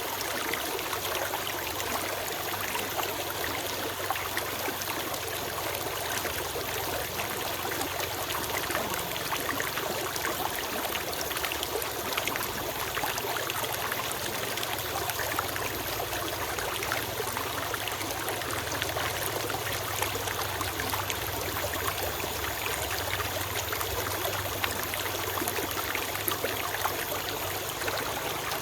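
A small stream flowing and trickling steadily over stones, an even babbling rush with no pauses.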